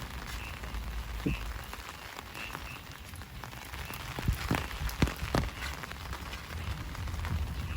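Heavy rain falling steadily, with a few sharp, loud taps of drops or drips close by about four to five and a half seconds in.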